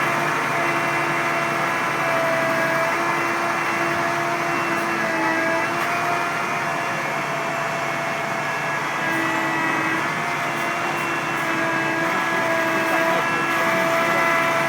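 Engine and hydraulics of a Mast truck carrying a Woody 60 harvester head, running steadily with a whine that shifts slightly up and down in pitch.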